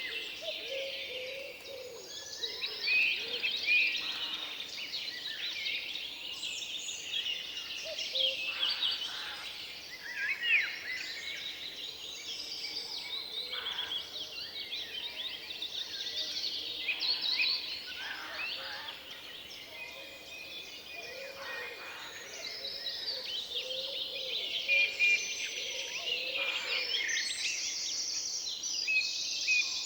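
Forest ambience with several songbirds singing at once, in overlapping chirps and trills, and some lower calls among them.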